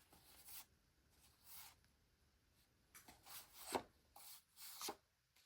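Faint rustling and brushing of paper as binder pages and challenge sheets are turned over, in several short strokes.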